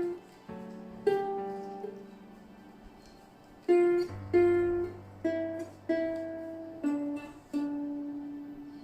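Ukulele played one note at a time: a slow melody of about eight single plucked notes, each left to ring and fade. The last note rings longest.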